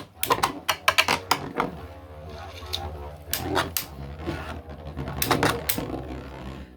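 3D-printed Beyblade tops spinning and clashing in a stadium: a rapid, uneven run of sharp clicks and knocks, with a low steady whir from about two seconds in.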